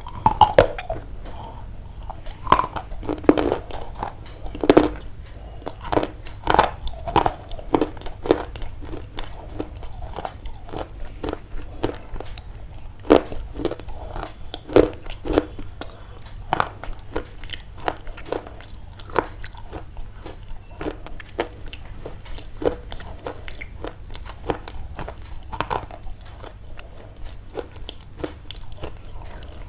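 Crunching and chewing: a continuous, irregular run of crisp crunches, loudest in the first several seconds and again about halfway through.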